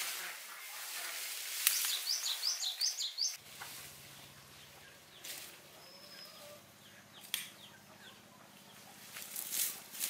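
Outdoor garden ambience: a bird gives a quick run of rising high chirps over the rustle of plants being handled. A few seconds in the sound cuts to quieter surroundings with a faint low steady hum, a brief high whistle and occasional rustling.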